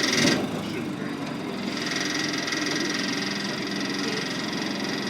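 Engine idling steadily, with a bump near the start and a steady high whine joining about two seconds in.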